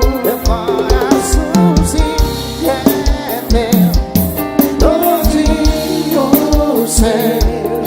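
Arrocha band music: a steady kick-drum beat under a wavering lead melody, with keyboard chords.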